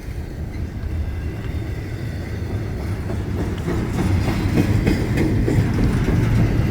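Double-stack container freight train rolling past on the rails: a steady low rumble of wheels and cars that grows a little louder, with a few faint clicks.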